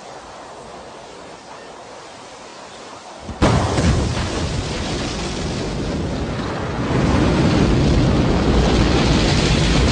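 SpaceX rocket launch: a steady hiss, then about three and a half seconds in the rocket's engine noise arrives suddenly as a loud, deep rumble, which grows louder again about seven seconds in.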